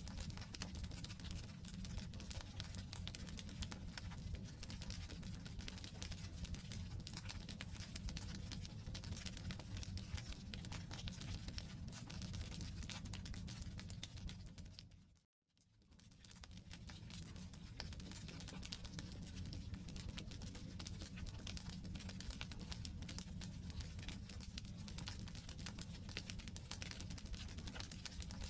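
Wood campfire burning, with a dense steady crackle of small pops over a low rumble of the flames. About halfway through it fades briefly to silence, then picks up again.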